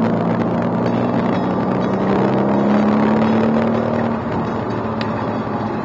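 Mercedes-AMG C63 S twin-turbo 4.0-litre V8 running under load, heard from inside the cabin; its note swells slightly, then drops in level about four seconds in.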